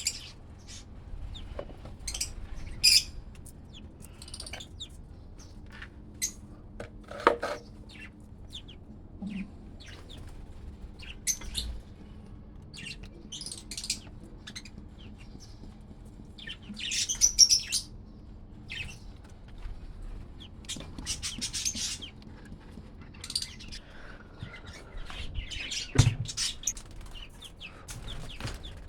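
Small pet parrots chirping in short, scattered calls, with a denser run of chirps about seventeen seconds in, and occasional sharp clicks between them.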